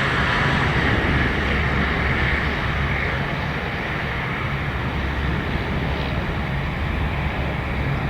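Cessna Citation CJ3 business jet's twin turbofan engines, a steady jet hiss over a low rumble that slowly fades.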